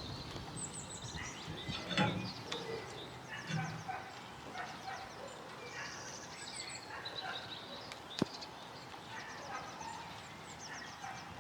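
Birds chirping and calling, with quick runs of high repeated notes scattered throughout. A single sharp click sounds about eight seconds in.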